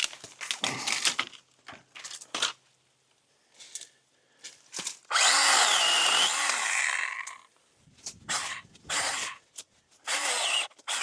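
A battery-powered cutting tool runs in one burst of about two seconds, cutting into brush, its motor whine bending in pitch under load. Short crackles and rustles of branches and vines come before and after it.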